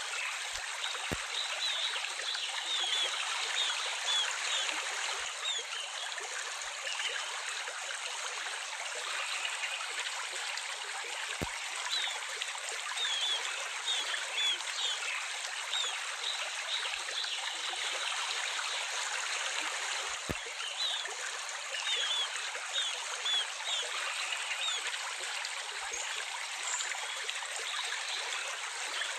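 Gently running water trickling steadily, with birds chirping in short, scattered calls over it.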